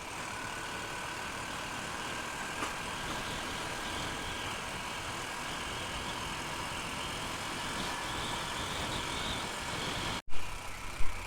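Honda Unicorn single-cylinder motorcycle riding along steadily, its engine and road noise mixed with steady wind rush on the microphone. About ten seconds in the sound cuts out briefly, then returns louder with irregular knocks and wind buffeting.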